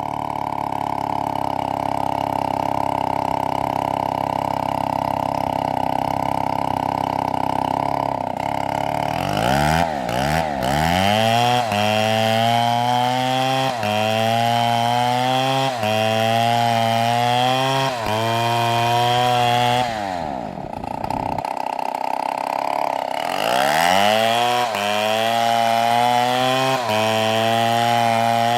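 Chainsaw running at high revs and cutting palm wood, its pitch wavering and dipping about every two seconds under the load of the cut. Twice, about 9 and 21 seconds in, the engine drops back and then revs up again.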